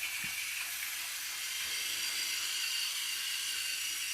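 Battery-powered Fisher-Price TrackMaster James toy engine's small motor and gears whirring steadily, with a high, hissing whine, as it runs along the track pulling its train.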